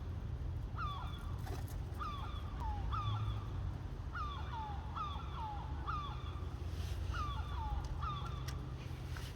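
Young crows calling: a steady run of short, hoarse calls that drop in pitch, about one or two a second, over a low background rumble.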